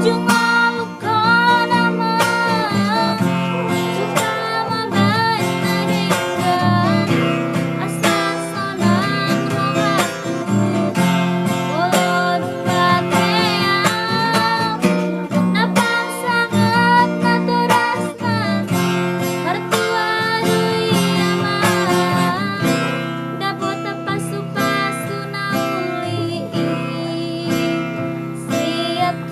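A woman singing a Batak Toba song with vibrato over strummed acoustic guitar accompaniment.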